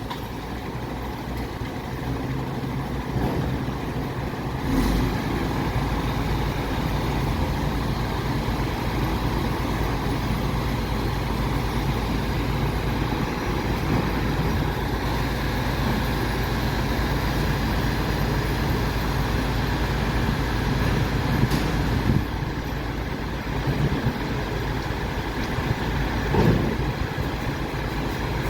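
Diesel engine of an MAN TGS 26.320 garbage truck running with a steady low drone that picks up about five seconds in. A few short knocks and clatters come through the drone near the middle and the end.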